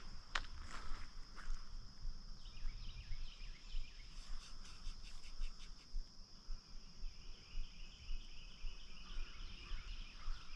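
Outdoor ambience: a steady high-pitched insect drone, with a bird chirping rapidly a few seconds in and a few sharp clicks near the start.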